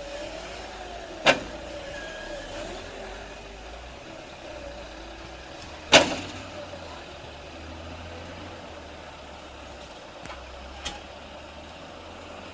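A machine's engine running steadily, with a wavering tone, broken by two loud sharp cracks, one about a second in and a louder one near the middle, and two fainter clicks near the end.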